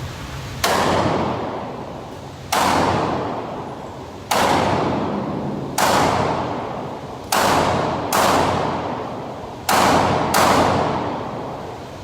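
Eight gunshots fired at an uneven pace, two of them in quick pairs near the end, each trailing off in a long echo.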